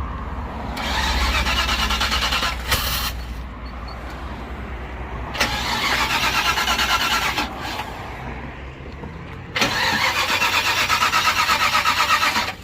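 Ford Club Wagon van's starter cranking its engine in three spells of a few seconds each, with an even chugging beat, without the engine firing: fuel is still being drawn back up to the fuel filter after the tank ran dry.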